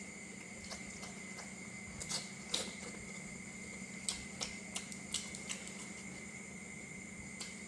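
Close-up eating sounds of a person chewing noodles and crispy fried food: irregular wet clicks and smacks from the mouth over a steady electrical hum.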